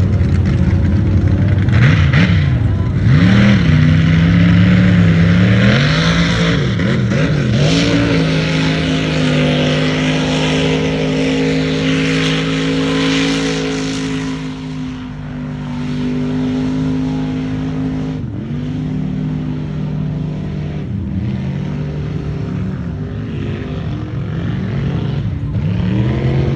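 Chevy mega mud truck's engine revving hard, its pitch swinging up and down, then held at high revs with a rushing hiss as it ploughs through the bog. It eases off about halfway through and revs in short bursts near the end.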